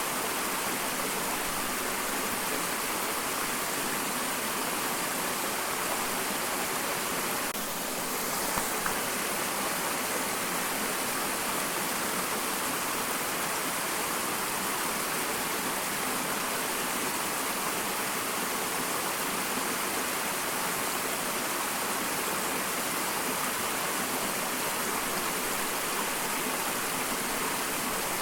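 Small waterfall pouring steadily: an even, continuous rush of falling water, with a brief slight dip in level about eight seconds in.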